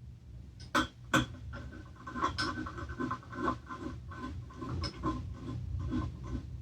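Two sharp metallic clicks, then a run of short, scratchy strokes at several a second as bolts are backed out by hand from the Homelite engine parts.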